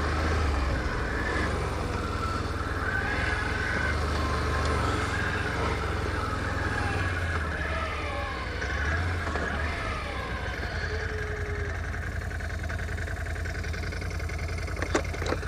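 ATV engine running while riding a rocky trail, its pitch rising and falling a little with the throttle.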